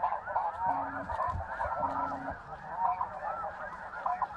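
A large flock of snow geese calling: a dense, continuous chorus of many overlapping short, high-pitched honks.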